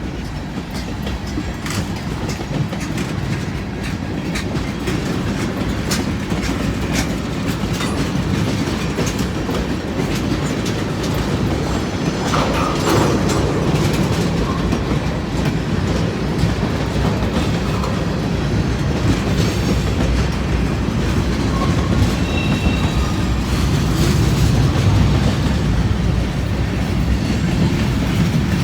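Freight train cars rolling past close by, a steady rumble with wheels clicking over rail joints and a brief faint squeal a little after the middle.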